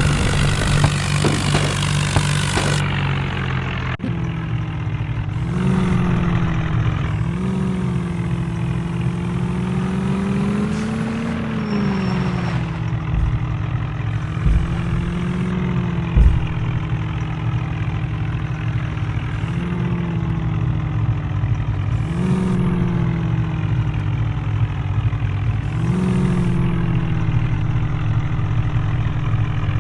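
Heavy diesel vehicle engine running steadily, its revs rising briefly and dropping back about seven times.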